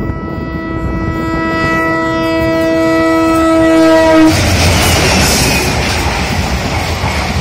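Indian Railways diesel locomotive's horn held in one long blast, growing louder as the train nears and cutting off about four seconds in as the locomotive passes. Then comes the loud rumble of the passing engine and the passenger coaches' wheels clattering over the rails.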